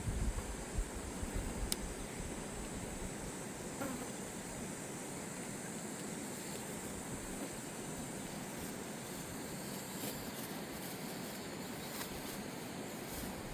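Fast mountain river rushing steadily, with a few faint clicks.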